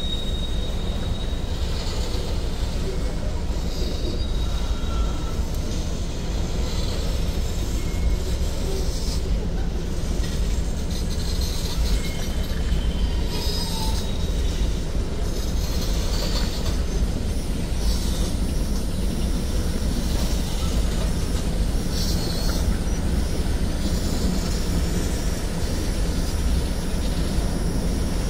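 Freight cars of a manifest train rolling past, a steady rumble of steel wheels on rail, with a few brief faint high-pitched wheel squeals now and then.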